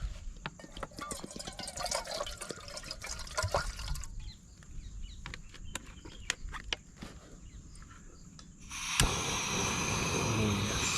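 Water poured and trickling into a camping tea kettle, with clicks and clatter from handling it. About nine seconds in there is a sharp click, then a steady rushing hiss sets in and is the loudest sound.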